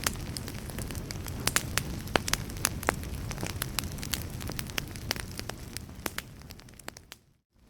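Wood fire crackling: frequent sharp pops and snaps over a steady low rumble. Near the end the sound fades away to a moment of silence, then starts again.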